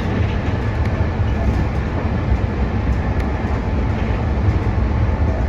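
Meitetsu electric express train running along the line: a steady rumble of wheels on rails, heard from inside the car.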